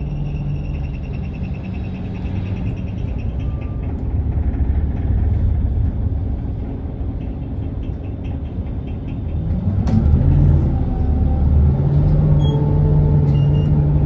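Isuzu Erga city bus's 4HK1 four-cylinder diesel heard from inside the cabin: idling steadily, then about ten seconds in the engine note rises and gets louder as the bus pulls away and accelerates.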